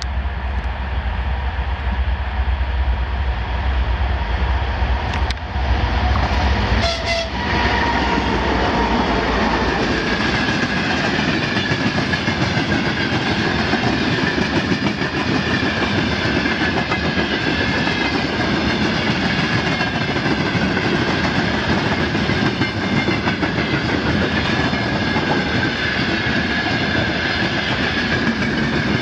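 A 2TE10MK diesel locomotive passing with a freight train: its engine rumbles heavily for the first several seconds and its horn sounds briefly about seven seconds in. The freight wagons then roll by with a steady clickety-clack and a high whine that wavers in pitch.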